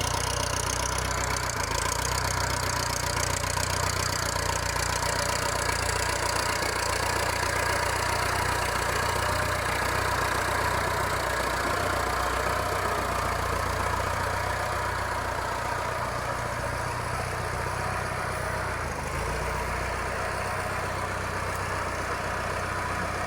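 Massey Ferguson 590 tractor's diesel engine idling steadily, running after a cylinder head and valve service.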